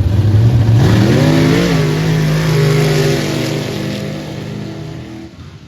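Dirt drag racing trucks' engines at full throttle down the track: the pitch climbs quickly about a second in, then holds steady and fades away near the end.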